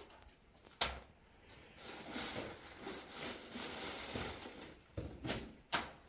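Several sharp knocks: one about a second in and three close together near the end, with a rustling, scraping noise between them, like objects being handled.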